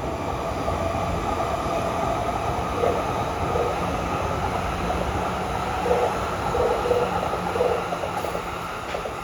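Electric commuter train running past a level crossing: a steady rumble of wheels on rail, with a few short squeaks from the wheels.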